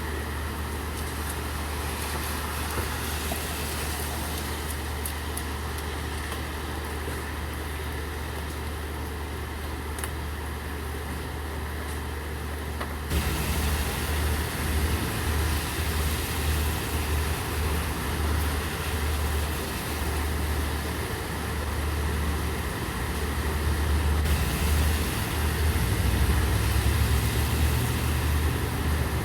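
Steady rain with a vehicle engine running under it as a low hum. About halfway through the sound steps up suddenly, the engine hum turning louder and uneven and the rain hiss stronger for a while.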